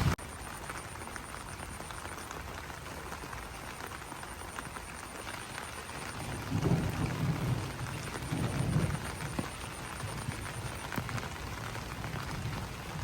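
Rain falling on banana leaves: a steady patter of drops hitting the broad leaves. Two low rumbles swell up about halfway through.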